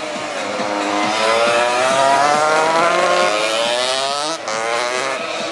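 200cc racing motorcycles accelerating hard, their engine notes climbing in pitch, briefly falling away about four seconds in, then climbing again.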